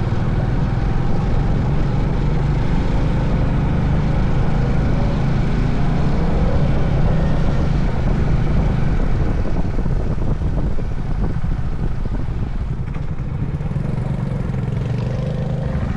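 Honda CB350 Highness single-cylinder engine running steadily under way, with wind and road noise on the rider's microphone. The level eases slightly near the end.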